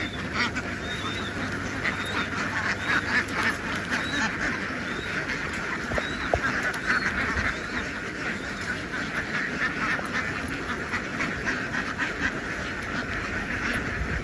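A large flock of ducks quacking continuously, with many calls overlapping into a dense, steady chorus.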